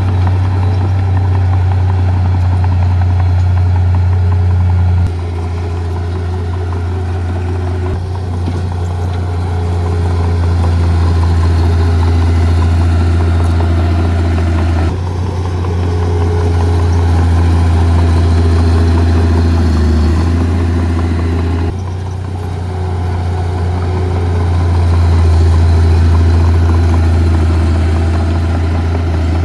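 Heavy diesel engine of earthmoving equipment running steadily with a deep hum, its level and tone shifting abruptly a few times.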